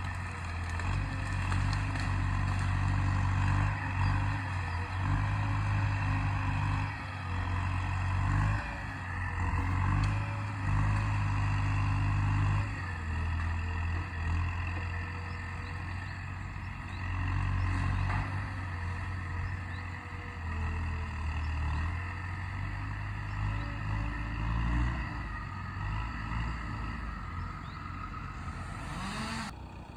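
Welte forestry skidder's diesel engine running hard, its revs and loudness rising and falling again and again.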